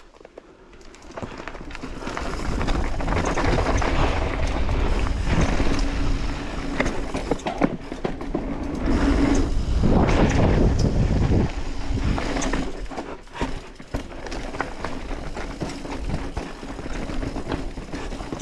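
Commencal Clash mountain bike ridden down a dirt bike-park trail: wind rush on the GoPro's microphone and tyres on dirt, with rattling clicks. It builds over the first couple of seconds and eases after about twelve seconds.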